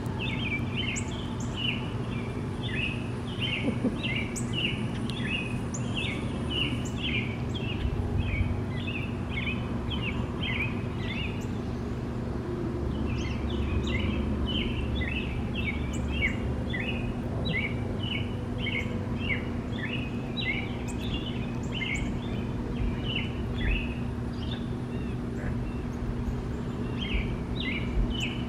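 A bird chirping a long, quick, evenly paced run of short high notes, pausing briefly twice, over a steady low background hum.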